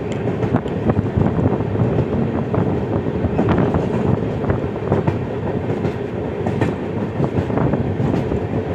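Passenger train coaches running along the track, heard from an open coach door: a steady rumble of wheels on rails with irregular sharp clicks over the rail joints.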